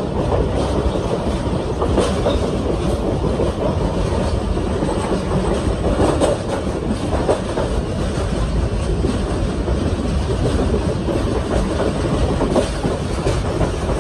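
Railcar train running along the track: a steady rumble with the clickety-clack of its wheels over the rail joints.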